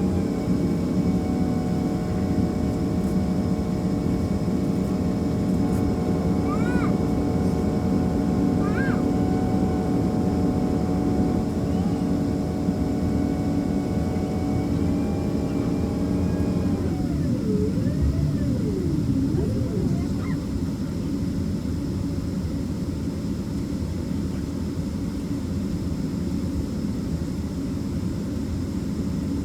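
Boeing 767 cabin noise: a steady hum of the aircraft's running systems, with several whining tones on top. A little over halfway through, the whine cuts off with a wobbling fall in pitch, leaving the lower hum running.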